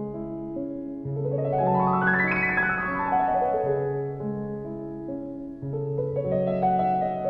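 Slow, soft piano music: held low chords with a run of notes that climbs about a second in and falls back down by about three seconds in.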